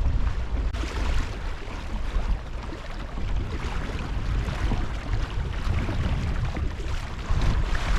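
Wind buffeting the microphone in heavy, uneven gusts, with water rushing and splashing along the hull of a sailing canoe under way.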